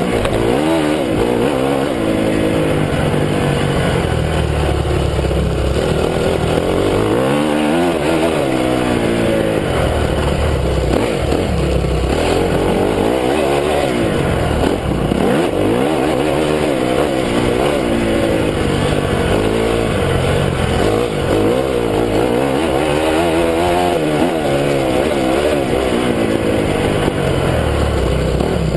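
Honda CRF250 four-stroke single-cylinder motocross engine under hard riding, its revs climbing and dropping again and again as the throttle is worked and gears change.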